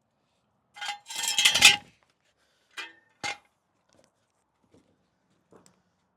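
Metal tools and parts clattering and clinking: a rattling clatter about a second in, then two sharp clinks with a ringing note just under three and a bit over three seconds in, and a few faint ticks after.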